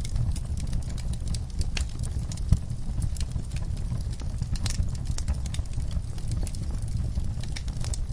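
Wood fire burning in a fireplace: a steady low rumble with irregular crackles and pops, one sharper pop about two and a half seconds in.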